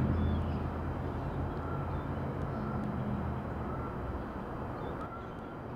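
Distant train, a steady low rumble with a deep engine hum that slowly fades away.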